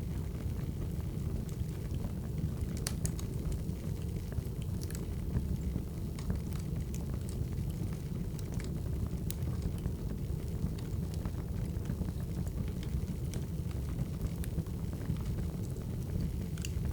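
Wood fire crackling: a steady low rumble with scattered sharp pops and snaps, a small cluster of them about three seconds in.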